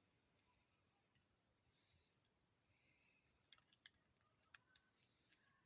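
Faint clicks and light handling of a small plastic hearing-aid charging case, mostly bunched together in the second half over a very quiet background.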